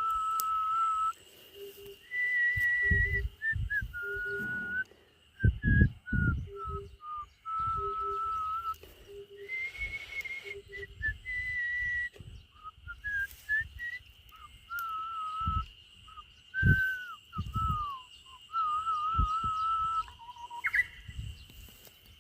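A person whistling a J-pop melody in long, steady held notes that step up and down in pitch, with short breaks between phrases. Brief low thumps break in now and then, the loudest about six seconds in.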